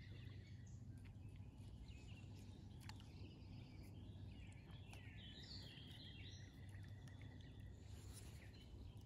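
Quiet pond-side ambience with faint birds calling, a warbling run of calls in the middle, over a low steady background hum.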